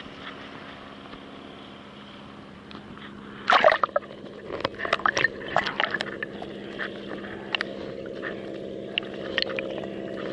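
Water sloshing and slapping against a kayak hull as waves pass under it, with a loud cluster of splashes about a third of the way in and irregular smaller slaps after. A steady low drone runs underneath.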